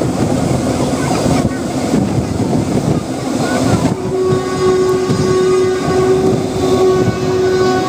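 Train running along the track with a steady rumble and wheel clatter. About halfway through, a long, steady horn blast starts and is still going at the end.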